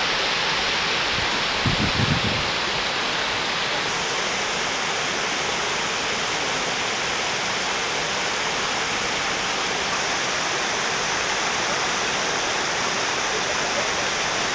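Water pouring steadily over a small dam, a constant rushing noise, with a brief low thump about two seconds in.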